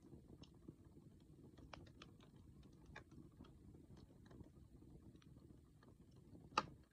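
Wood campfire crackling softly with scattered small pops over a low hiss, then one sharp louder pop near the end.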